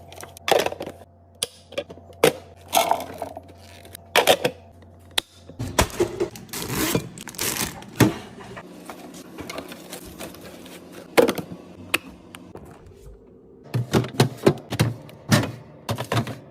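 Restocking handling sounds: packaged food and containers being picked up, rustled and set down, giving a string of sharp clicks, knocks and short crinkly scrapes. A low hum sits under the first few seconds and stops abruptly.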